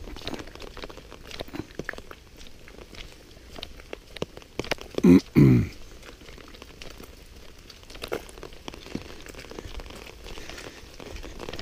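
Rain falling in scattered pattering drops, with a brief voice sound about five seconds in.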